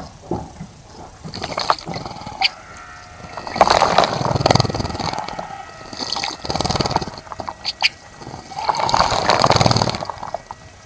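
Small bird fluttering its wings in a bird bath, splashing water in three bouts of rapid flicking, with a brief high chirp between the last two bouts.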